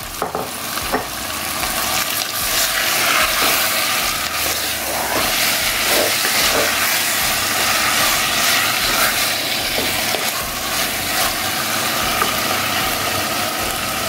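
Marinated chicken pieces sizzling and hissing as they fry in hot coconut oil in an earthenware clay pot, getting louder over the first couple of seconds, with a wooden spatula now and then stirring and scraping through them.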